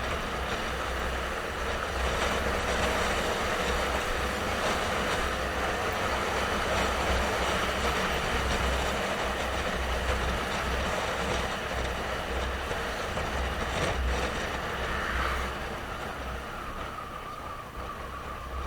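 Wind buffeting the microphone over a motorcycle's running noise while riding, with a faint steady whine; the noise eases off over the last few seconds.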